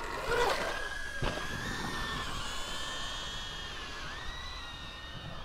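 Electric dirt bike's motor whine, a steady high tone that rises and dips a little with the throttle, with one thump about a second in.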